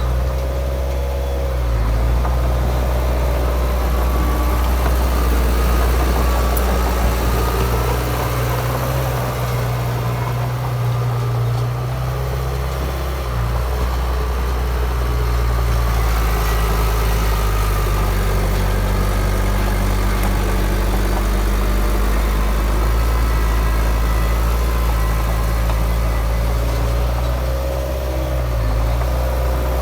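Heavy diesel engine of a crawler bulldozer running under changing load. It gives a continuous low engine note whose pitch dips and recovers, about two seconds in and again near the end.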